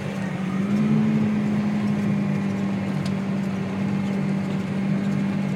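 Tractor engine running steadily, its note rising slightly about a second in and then settling back.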